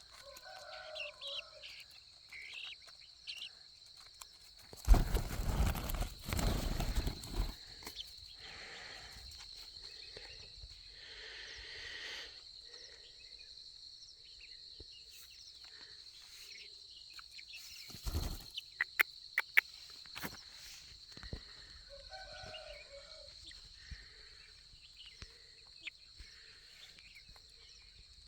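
Soft calls of black francolin chicks feeding, over a steady high insect buzz. A loud burst of noise lasts about two and a half seconds from about five seconds in, and a few sharp clicks come about two-thirds of the way through.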